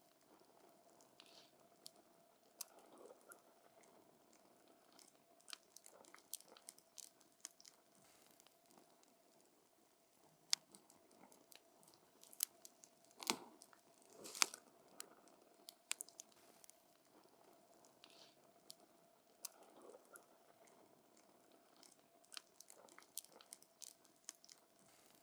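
Burning wood in a campfire crackling: irregular sharp snaps and pops, with two louder pops about halfway through, over a faint steady hiss and a low steady tone.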